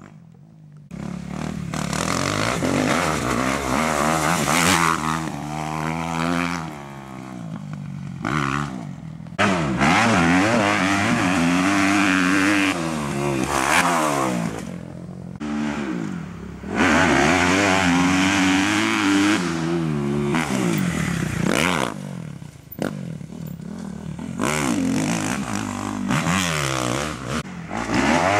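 Kawasaki KX250F four-stroke single-cylinder motocross engine revving up and down again and again under hard throttle on a dirt track, with a few brief lulls where the throttle drops off.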